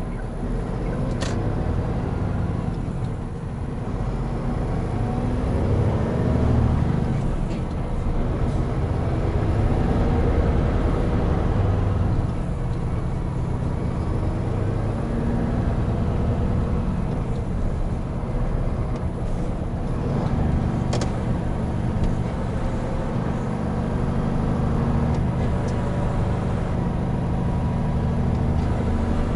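Hino Profia heavy truck's diesel engine running under way with road noise, the engine note shifting in pitch as it drives. Two sharp clicks, about a second in and again about two-thirds of the way through.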